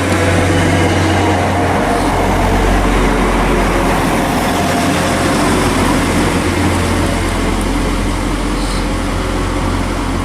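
A train running past, loud and steady: a low engine hum with a few steady tones above it, under a rushing noise of wheels on rails.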